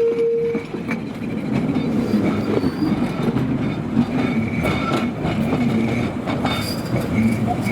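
Tram running along its rails, with a steady rumble, wheels clattering over rail joints and faint high-pitched wheel squeal.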